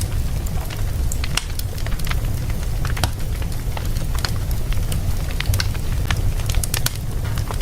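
A fire in a fireplace crackling, with many irregular sharp pops and snaps over a steady low rumble.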